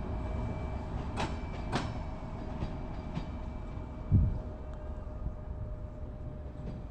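Train running on the rails: a steady low rumble with a steady hum, two sharp clicks half a second apart a little over a second in, and a low thump about four seconds in.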